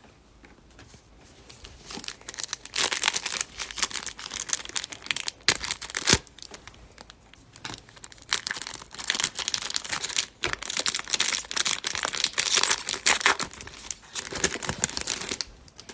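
Foil or plastic wrapper of a trading card pack being crinkled and torn open, in two spells of crackling with a short pause between them.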